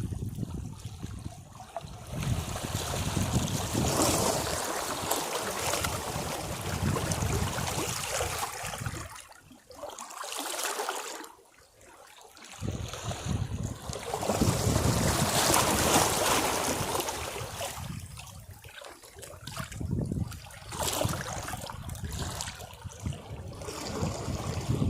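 Sea waves washing against rocks, the surge swelling and draining back in irregular waves, with a near-lull about halfway through.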